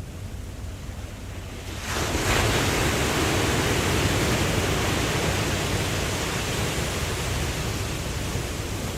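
Ocean surf: a low rumble of sea, then about two seconds in a wave breaks and washes in as a loud hiss that slowly fades.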